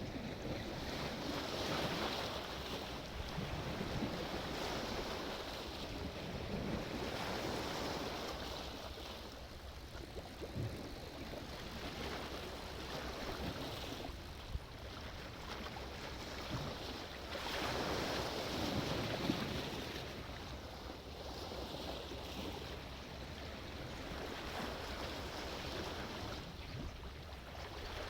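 Sea waves breaking and washing in, the surf swelling and falling back every few seconds.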